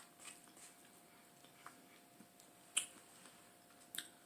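Quiet chewing with a few short wet mouth clicks and smacks, two sharper ones near three and four seconds in.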